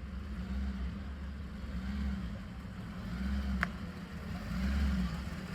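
Car engine running with a low rumble that swells and fades about every second and a half. A single sharp click comes about three and a half seconds in.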